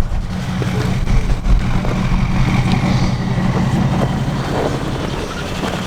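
A motor vehicle's engine idling steadily close by: an even, low running sound that does not rise or fall.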